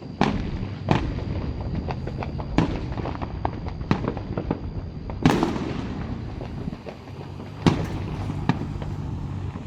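Aerial fireworks shells bursting every second or two, the loudest about five seconds in, with many small crackles between the bangs over a steady low rumble.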